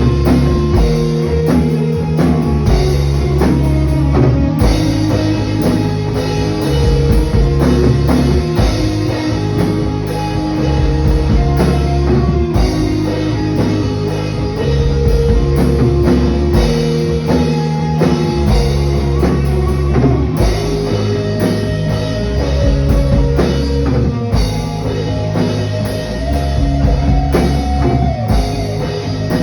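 A rock band playing, with drum kit, guitar and sustained bass notes and no singing heard.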